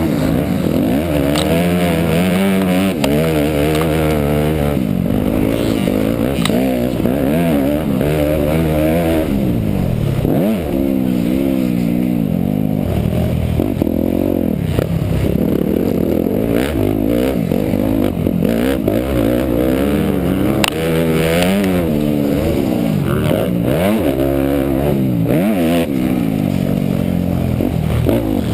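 Motocross bike engine revving up and falling back again and again as it accelerates and shifts, with a few knocks and rattles.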